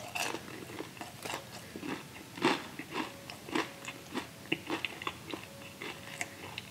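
A person chewing a mouthful of fried chicken close to the microphone, with irregular crunches and mouth clicks.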